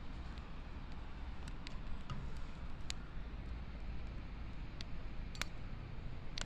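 Wood bonfire crackling: a few scattered sharp pops over a low steady rumble.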